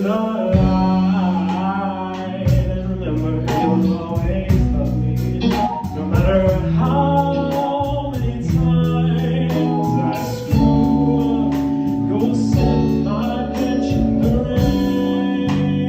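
A rock/pop band plays: electric guitar, keyboards, bass guitar and drums with a steady beat, with a voice singing the melody over it.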